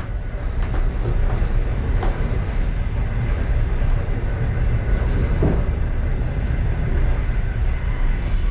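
Passenger train car rolling along the track, heard from inside the last car: a steady low rumble with a few faint knocks.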